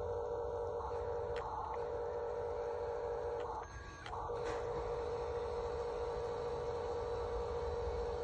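Steady electric hum of the small motor in a Huina 1536 RC truck, cutting out briefly about three and a half seconds in.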